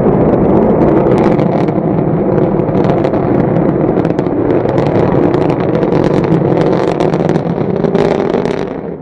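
Rocket engine's loud, rough roar with sharp crackling running through it, dying down near the end.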